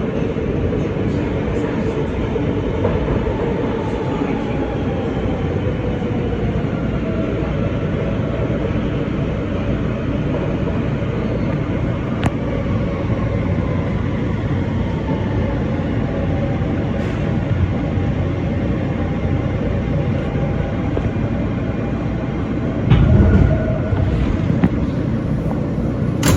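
New York City subway train running through a tunnel, heard from on board: a steady rumble of wheels on rail, with faint motor tones gliding down in pitch midway. A loud low thump comes about 23 seconds in.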